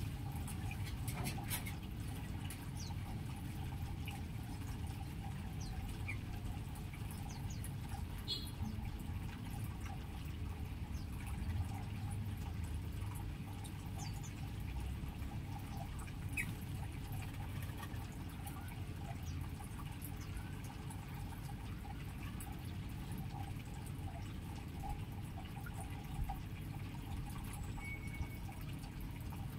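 A few faint, scattered bird chirps over a steady low rushing noise.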